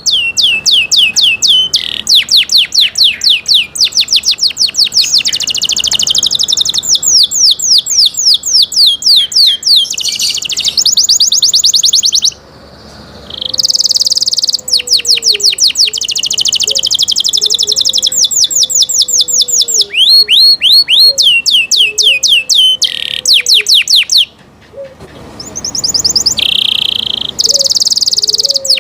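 Domestic canary singing: long runs of rapid, evenly repeated high trilled notes. The song breaks off briefly about twelve seconds in and again near twenty-four seconds, then resumes.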